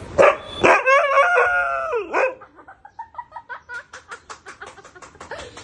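Siberian husky howling: a loud, drawn-out, wavering howl for about two seconds, then a fast run of short, softer vocal pulses, several a second.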